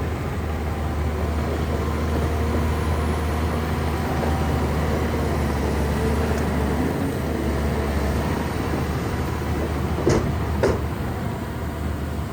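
Shantui bulldozer's diesel engine running steadily under load as it pushes mud and soil, with two sharp clanks about ten seconds in.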